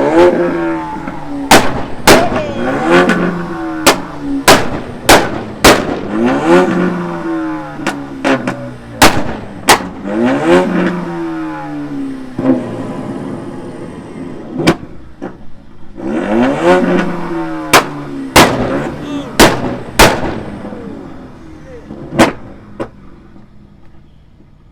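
Car engines held on two-step launch control, revved up and down over and over, with loud sharp exhaust backfire bangs cracking between the revs. The revving and bangs die down over the last few seconds.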